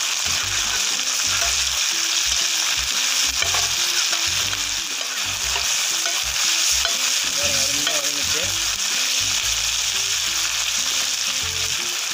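Chopped onions and ginger-garlic paste sizzling steadily in hot oil on a tawa while a spatula stirs and scrapes them, sautéing the paste until its raw smell cooks off.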